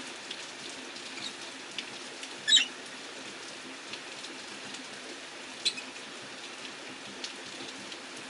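Rosy-faced lovebirds giving a few short, sharp chirps, the loudest about two and a half seconds in and another near six seconds, over a steady hiss of rain.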